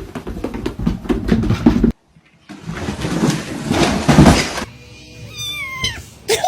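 A cat meowing: one drawn-out call falling in pitch near the end, after about two seconds of rapid clicks and knocks and a stretch of noise.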